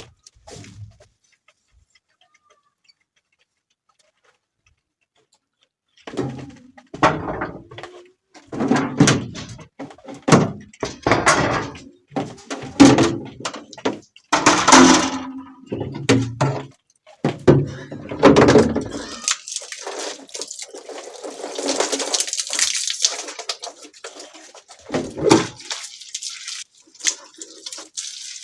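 Water splashing and knocking as a refrigerator is washed out. After a few quiet seconds come a string of thuds and splashes, with a stretch of steady hose-spray hiss about two-thirds of the way through.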